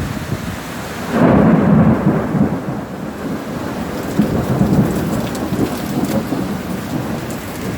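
Heavy summer thunderstorm rain, with a loud low rumble that swells about a second in and eases off over the next few seconds.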